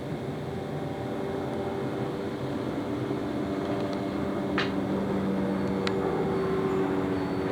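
A vehicle engine running steadily with a low hum, with a couple of short sharp clicks about halfway through.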